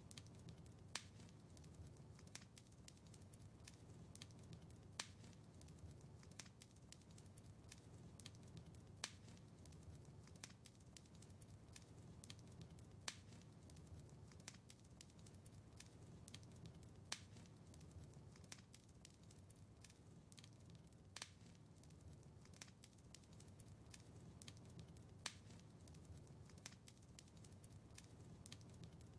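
Wood fire crackling quietly in a fireplace: many small snaps over a low, steady rumble of flames, with a louder pop about every four seconds.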